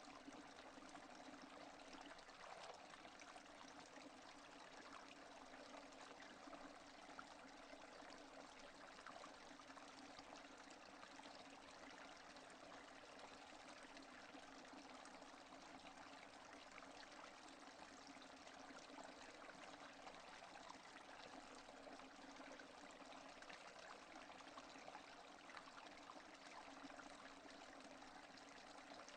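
Steady rain falling, a dense even hiss of many small drops, with no thunder.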